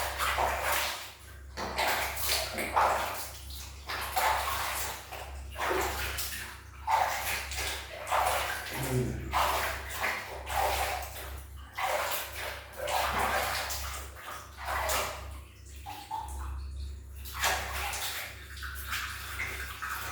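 A kitten meowing again and again in protest at being bathed, over water splashing and pouring in short bursts.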